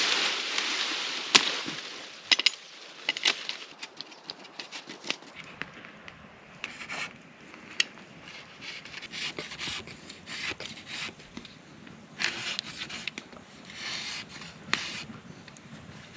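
A blade scraping and cutting into a wooden stick, in short strokes, with many sharp clicks and cracks.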